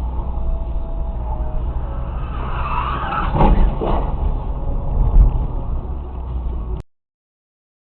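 Car driving, heard from inside: a steady low road and engine rumble, with a louder burst of noise about three and a half seconds in and a heavy thump about five seconds in. The sound cuts off abruptly near the end.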